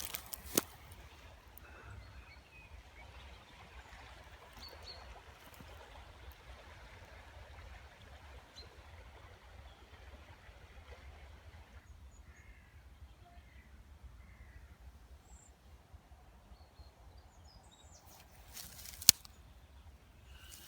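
Quiet outdoor background with a few faint bird calls, and one sharp crack near the end.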